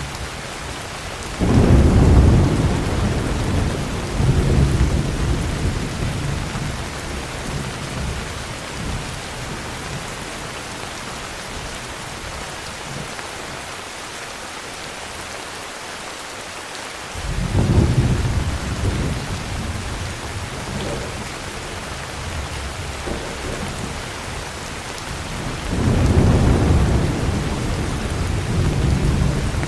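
Steady heavy rain with three rolls of low thunder: one about a second and a half in, one a little past the middle, and one near the end. Each rolls for several seconds before fading back into the rain.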